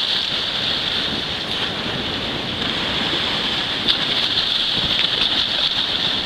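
Steady rushing hiss of sea surf and moving water, with wind on the microphone and a few faint clicks.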